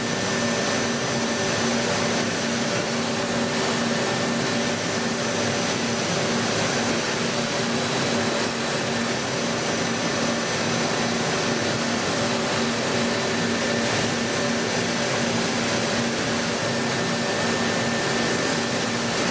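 CNC machine tool running at a steady pace: a constant hiss with several steady whining tones from its motors and spindle.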